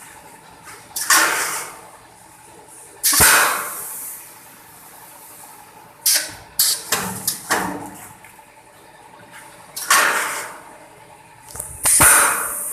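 Automatic 5 kg rice packaging machine running through its cycle: a steady low hum with sudden bursts of rushing noise every two to three seconds, some coming in quick clusters, each fading within about a second.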